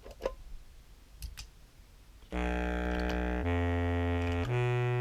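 A couple of faint clicks, then about two seconds in a sampled contrabass clarinet starts playing in its bass register through a pedal effects chain: held low notes about a second each, stepping upward in pitch.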